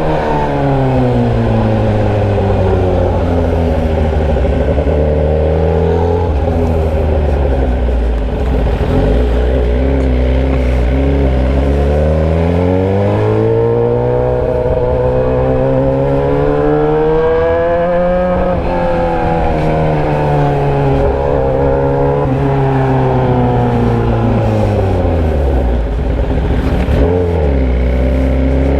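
Motorcycle engine running with its muffler removed, exhausting through a bare pipe. Its pitch repeatedly rises under acceleration and falls as the throttle is eased, several times over.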